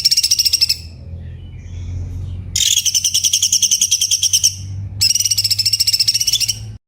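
Cucak cungkok songbird singing fast, rapid-fire trilled phrases ('tembakan'): three bursts of quickly repeated high notes with a few softer calls between. A low hum runs underneath, and the song cuts off suddenly near the end.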